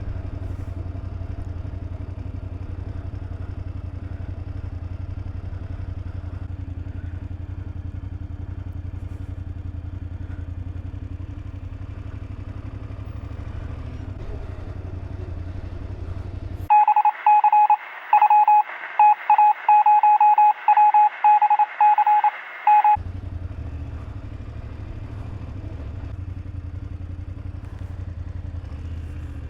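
BMW F800GS parallel-twin motorcycle running steadily under way, a low continuous engine and road rumble. About two-thirds of the way through, the engine sound cuts out completely for some six seconds while loud electronic beeps pulse on and off unevenly, like a phone's keypad tones; then the riding rumble returns.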